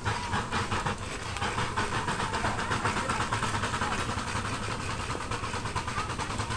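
Miniature live-steam traction engine running, its exhaust beating in a rapid, even rhythm of chuffs.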